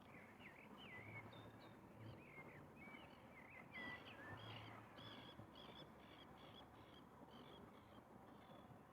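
Faint distant birdsong over quiet outdoor ambience. First comes a run of varied short chirps and whistles, then, about four seconds in, a steady series of repeated notes at a little more than two a second that trails off near the end.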